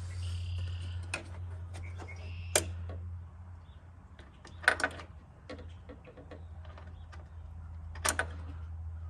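Scattered light clicks and taps of a small screw and hand tool being worked in a tight spot, the loudest about a third of the way in, halfway and near the end. A steady low hum runs underneath, and there is a short high squeak near the start.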